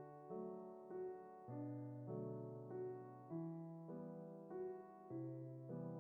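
Soft background piano music: gentle, evenly paced notes and chords, a new note struck about every half to three-quarters of a second.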